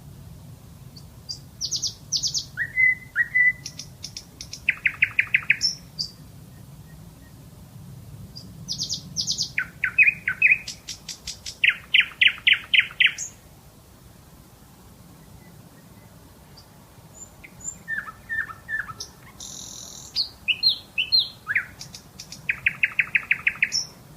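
Nightingale singing: three phrases of song separated by short pauses, each made of quick runs of repeated notes and higher whistles.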